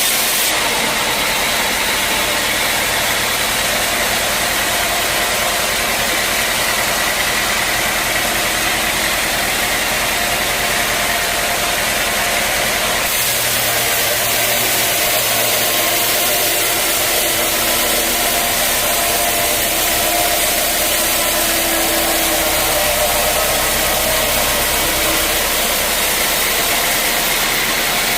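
Sawmill machinery running steadily: a motor hum under a loud, even hiss of the saw. The sound changes abruptly about half a second in and again about halfway through.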